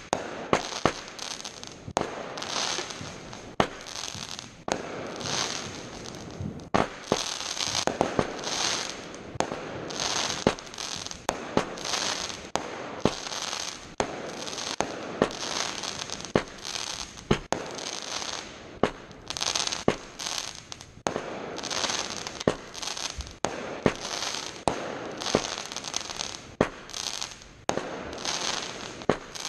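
Fireworks exploding in rapid succession: many sharp bangs, several a second, over continuous crackling from bursting shells.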